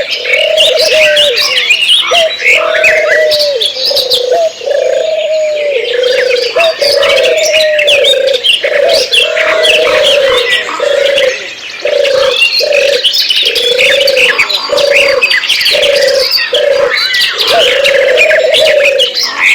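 A dense chorus of birds chirping and whistling, with a lower call repeated about once a second underneath.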